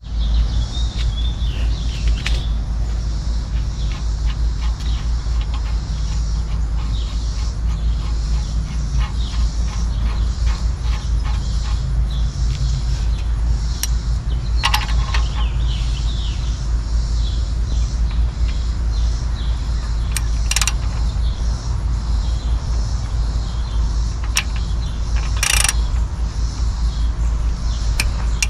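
Steady low rumble, with birds chirping and a few sharp clinks.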